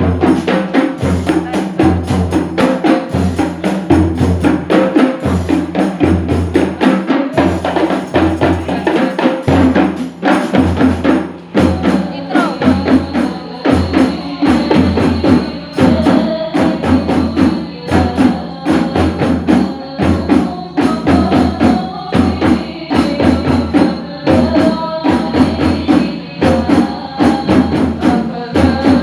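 Sholawat percussion ensemble playing a fast, steady rhythm: frame drums and tambourine jingles over a deep bass beat that repeats about once a second.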